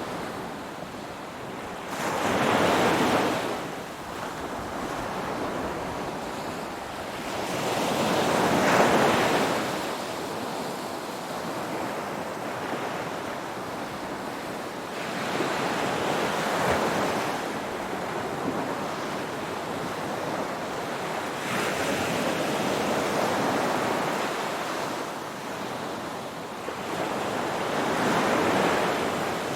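Ocean surf: waves washing in, the rush swelling and fading five times, about every six seconds.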